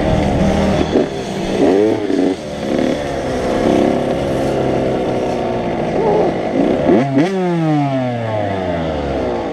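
85cc two-stroke motocross bikes running on a track, engines revving up and down. About seven seconds in, one revs up sharply, then its pitch drops steadily over the last two seconds.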